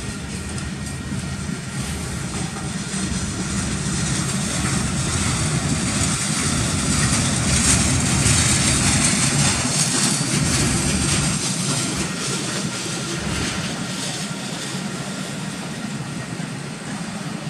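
Freight cars rolling past: covered hoppers, a boxcar and autoracks, with the steady rumble and hiss of steel wheels on rail. It swells to its loudest about eight seconds in, then eases slightly.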